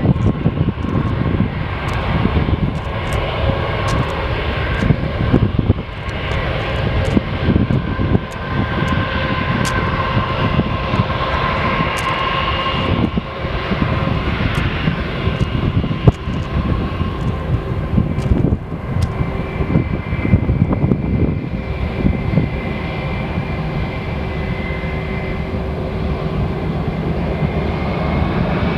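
Airliner engines running with a steady whine, overlaid by gusty wind buffeting the microphone. Near the end the whine begins to rise in pitch.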